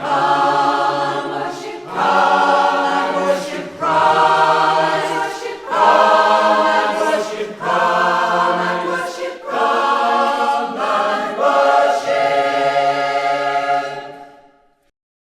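Choir singing a traditional Cornish carol in phrases of about two seconds each, with brief breaths between them. The singing dies away about a second before the end.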